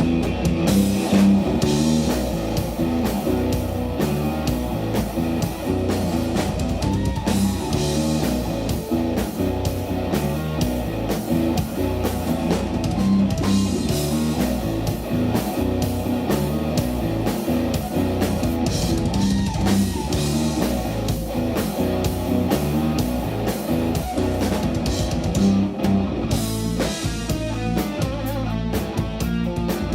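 Live instrumental trio of electric guitar, bass guitar and drum kit playing a ballad, the guitar carrying the melody over bass and drums.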